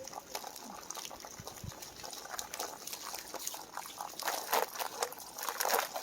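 Water trickling and splashing out of an RV hot water tank, with heavier gushes between about four and six seconds in.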